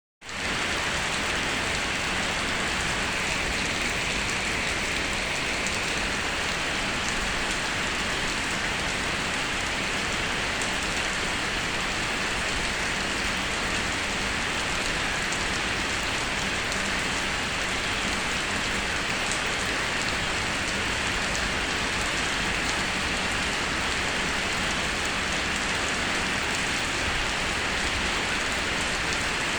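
Rainstorm: rain falling in a steady, even hiss that fades in at the very start and holds without a break.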